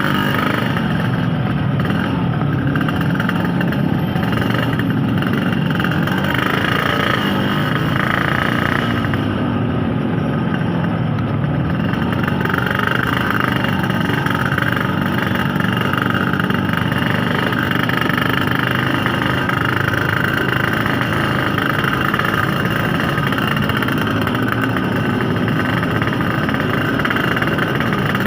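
Yamaha RX-King 135 two-stroke motorcycle engine running on the move, its pitch rising and falling with the throttle.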